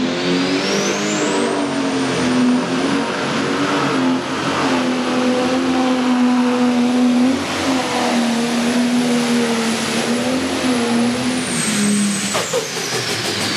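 Pro stock pulling tractor's turbocharged diesel engine running flat out under load on a pull. A high turbo whine rises over the first second or two, holds steady, and falls away near the end as the run finishes.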